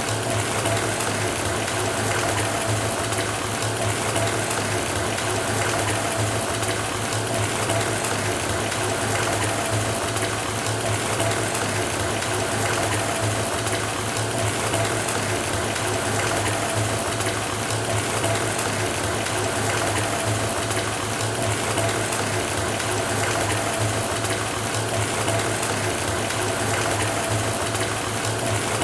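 Water running steadily from a bathtub faucet into a filling tub: a constant rushing hiss with a low steady hum underneath.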